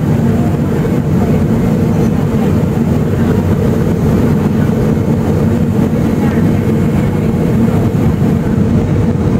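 Steady low drone of engine and rushing-air noise heard inside the passenger cabin of a Boeing 757 in flight.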